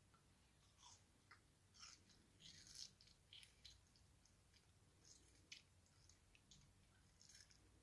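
Faint, irregular wet smacks and clicks of a toddler's mouth chewing watermelon and sucking the juice off his fingers.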